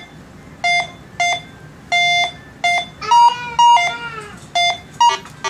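Minelab Go Find 60 metal detector beeping in short bursts as it is swept over a screw-top bottle cap. The tone jumps between a low pitch and a higher one, the detector's changing reading on an iffy cap target, with one longer beep about two seconds in.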